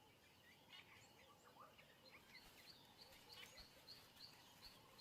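Faint wild bird calls over quiet natural ambience: scattered short chirps and whistles, with one short note repeated about three times a second in the second half.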